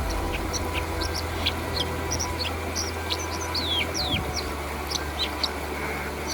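White-throated dipper singing: a quick, scattered string of short high chirps and falling whistled notes over a steady low rush.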